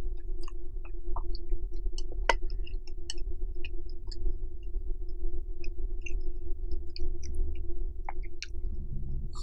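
Close-miked chewing of japchae sweet potato noodles: many small, scattered wet mouth clicks over a steady low hum.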